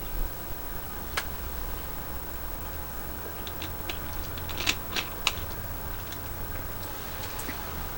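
Light, sharp clicks and taps over a low steady hum: one about a second in, a quick run of them around the middle with the loudest three close together, and one more near the end.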